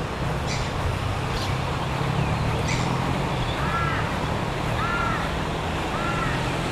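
A bird calling, a short arched note repeated about once a second from just past halfway, over a steady low outdoor rumble.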